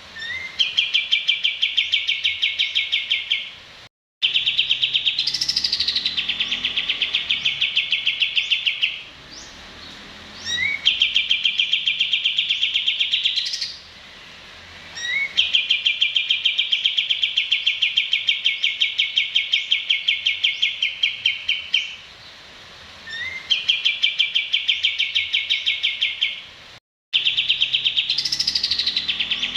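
Recorded songbird song played as a masteran track for training competition birds: long runs of rapid, evenly spaced trilled notes lasting a few seconds each, most opening with a short rising note, and twice a high falling whistle. The sound cuts out completely for a moment twice, as in a looped, edited track.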